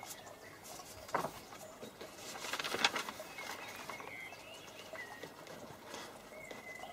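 Birds calling outdoors: short high chirps repeated every second or so, over fainter low wavering calls. A single click just after a second in and a louder crackling rustle between about two and a half and three seconds in, which is the loudest moment.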